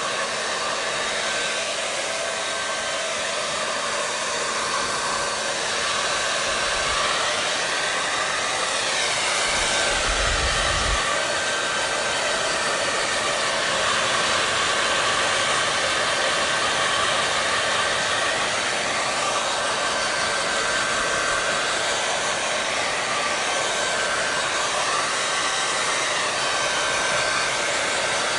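Hair dryer running continuously: a steady rushing of fan and airflow with a faint whine, its tone shifting slowly up and down now and then.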